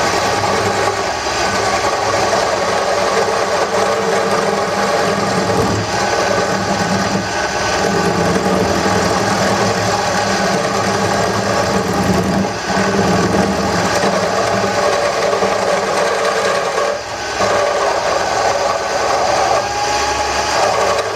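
Wood lathe running steadily while a turning tool cuts the spinning wooden handle blank: a constant motor hum under the noise of the cut, with a couple of brief dips where the tool comes off the wood.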